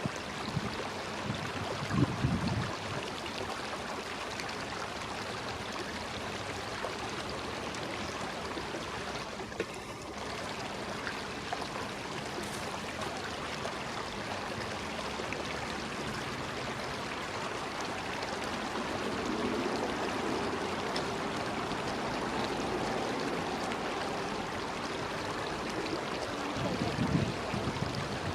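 Steady rush of flowing stream water, with a few low bumps about two seconds in and again near the end.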